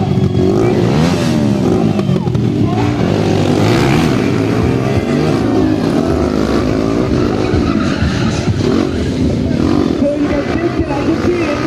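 Stunt motorcycle engines revving up and down again and again, their pitch rising and falling in quick overlapping sweeps.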